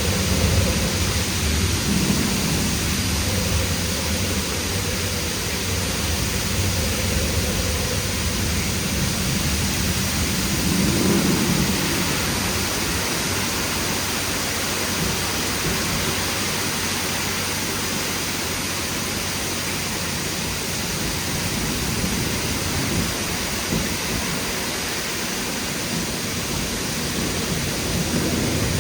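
Roof high-pressure jets of a WashTec SoftCare² Pro rollover car wash spraying water at 70 bar onto a car: a steady, loud rushing hiss, with a low hum underneath that fades somewhat after about twelve seconds.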